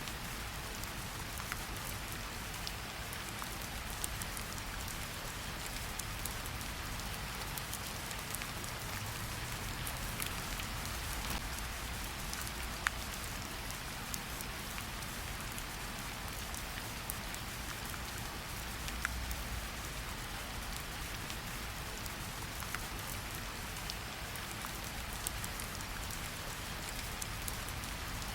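Steady rain falling in a forest, an even hiss with scattered individual drops ticking, one sharper drop about 13 seconds in.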